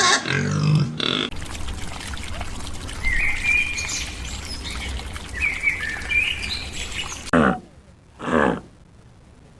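Outdoor farm ambience with a steady low rumble and a few bird chirps, after a brief pig grunt at the start. Near the end come two short animal calls, each sliding down in pitch.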